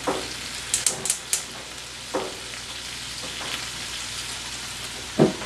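Cubes of extra-firm tofu frying in coconut oil in a frying pan: a steady sizzle with a few sharp pops and knocks, the loudest a thump about five seconds in.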